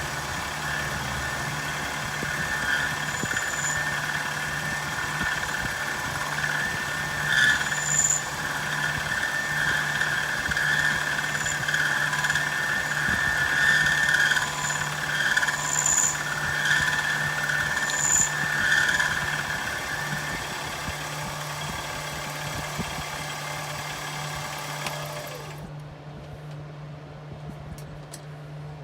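Milling machine cutting metal bar stock: a steady squeal from the cutter over the hum of the spindle motor. The cutting squeal stops suddenly near the end while the motor keeps running.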